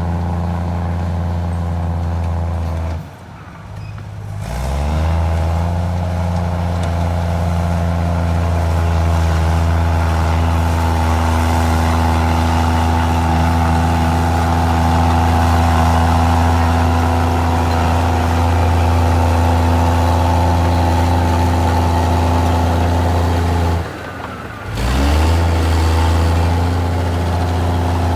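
Komatsu D53E bulldozer's diesel engine running steadily under load. Twice, about three seconds in and again near the end, the engine note drops away briefly, then rises in pitch as it revs back up.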